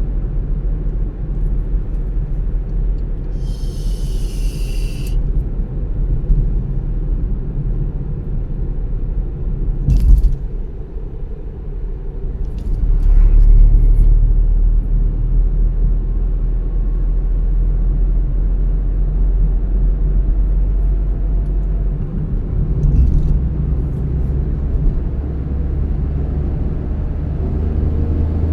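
A moving car's low, steady rumble of road and engine noise. A brief hiss comes about four seconds in and a sharp knock about ten seconds in, and the rumble grows louder a little past the middle.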